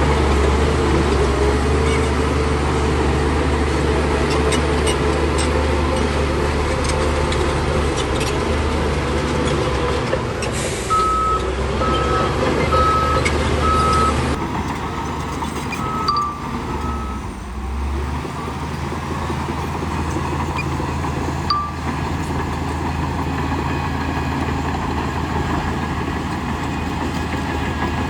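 Heavy earthmoving machinery running steadily under load, with a deep engine drone. About eleven seconds in, a reversing alarm sounds a string of short, evenly spaced beeps for several seconds.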